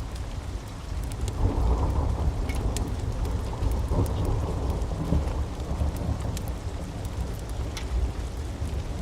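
Steady rain with a low roll of thunder that swells about a second and a half in and slowly fades out, and scattered sharp crackles from a wood fire.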